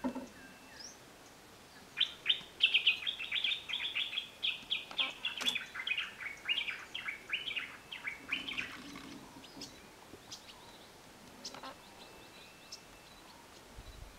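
A bird calling in a fast run of repeated notes, about five a second, starting about two seconds in and going on for some seven seconds before fading.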